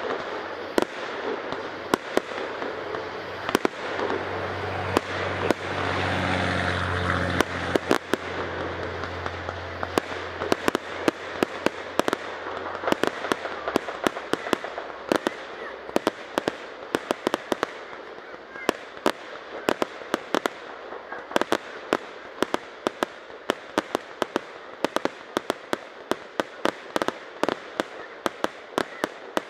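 Aerial fireworks shells bursting, with a continuous run of sharp cracks and reports that comes faster and denser through the second half. A low droning hum swells about four seconds in and dies away about a third of the way through.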